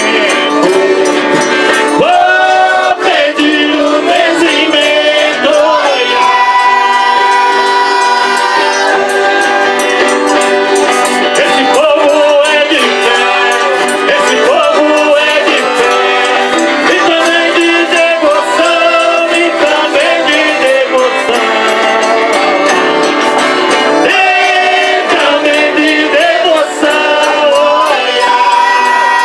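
Folk music on an eight-bass button accordion holding long notes, with voices singing and a tambourine shaken along.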